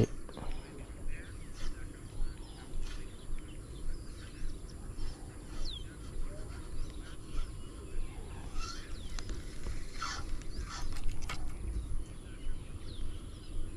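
Birds chirping and calling, scattered short calls over a steady low outdoor rumble, with a faint regular ticking about twice a second.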